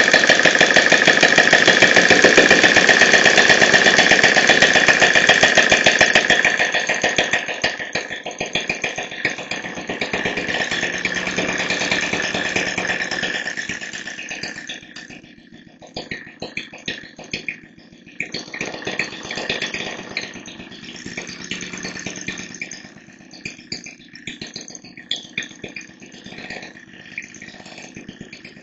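OKMO Z01 scale-model Fairbanks Morse Z hit-and-miss gasoline engine running fast with a rapid, even beat. It is loud for the first six seconds or so, then quieter, its level swelling and dropping in stretches.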